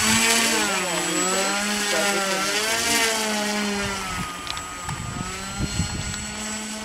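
Electric RC model airplane's motor and propeller whining in flight, the pitch wavering up and down as it flies. Short low rumbles of wind buffeting come in the second half.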